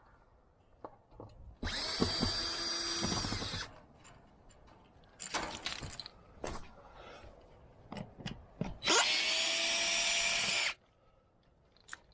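Power drill running in two bursts of about two seconds each, with scattered clicks and knocks in between.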